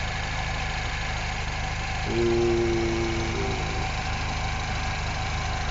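R56 Mini Cooper S's 1.6-litre turbocharged four-cylinder engine idling steadily while warming up.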